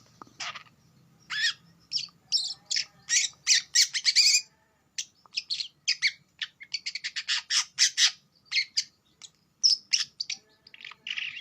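Long-tailed shrike (cendet) calling: rapid runs of short, harsh chirps with brief pauses between runs.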